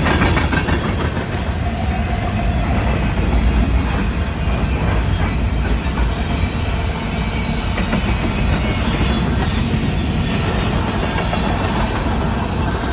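Freight cars of a grain train rolling past, wheels clicking over the rail joints.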